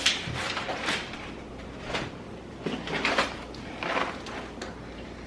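Packaging and products being handled: a series of short rustles and light knocks, about one a second, as items are taken out of a delivery box and set down.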